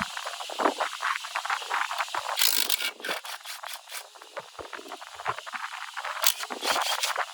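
Workshop hand work on machine parts: irregular scraping and clinking, with two louder scraping bursts about two and a half and six seconds in.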